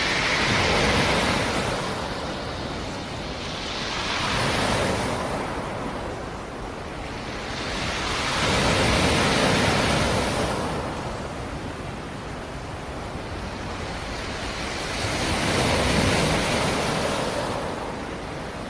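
Sea surf: waves breaking on a rocky shore, four of them, each swelling to a rush and falling back to a softer wash in between.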